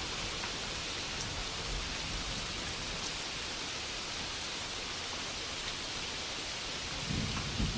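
Steady rainfall: an even hiss of rain.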